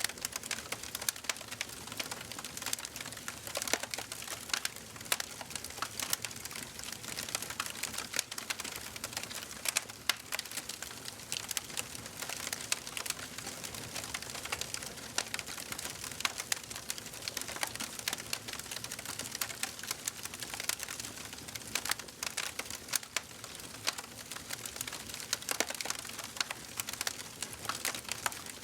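Wood fire burning in a fireplace, with a dense run of small crackles and pops over a soft hiss of flame.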